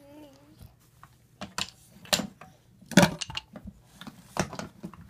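A drawn-out pitched vocal sound trailing off in the first half second, then a string of sharp, irregularly spaced clicks and knocks.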